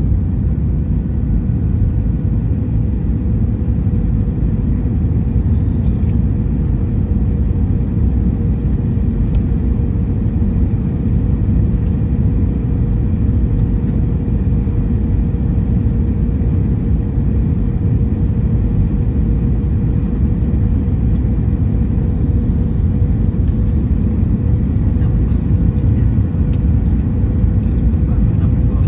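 Airbus A321-200 cabin noise heard from an economy window seat: a steady, low rumble of engines and airflow with an even hum running through it.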